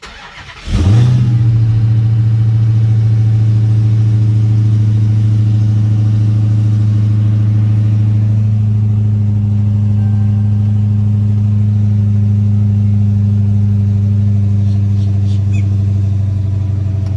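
Dodge Charger Hellcat's supercharged 6.2-litre HEMI V8 cranking briefly, catching with a loud flare about a second in, then settling into a steady idle.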